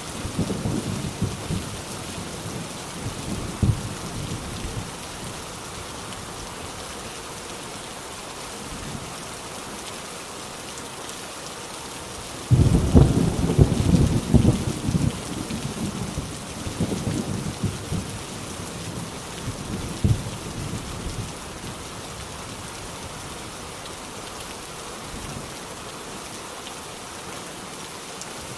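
Heavy rain falling steadily on an old rusty tin roof. Thunder rumbles low near the start, then a loud clap breaks in about halfway through and rolls away over several seconds.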